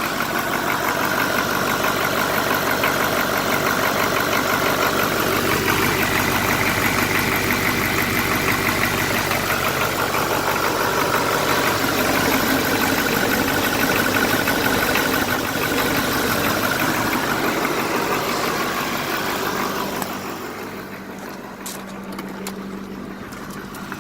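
GM 5.7-litre V8 diesel engine held at high idle while still warming up, running steadily. The sound drops noticeably quieter about 20 seconds in.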